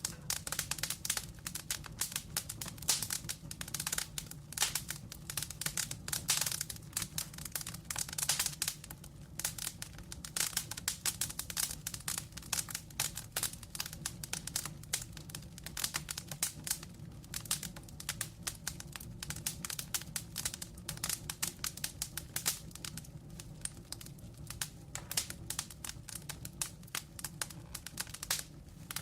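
Wood fire burning with steady, irregular crackling and popping over a low rumble.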